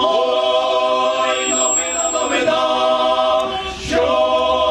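Church choir singing a Ukrainian Christmas carol (koliadka) a cappella, holding long chords that shift a couple of times.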